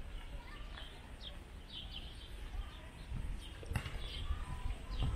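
Outdoor street ambience: birds chirping in short repeated calls over a steady low background rumble, with one sharp click about three and a half seconds in.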